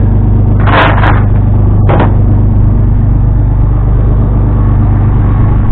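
An engine running steadily with a constant low hum. There are a few short, sharp knocks or clanks about a second in and again at about two seconds.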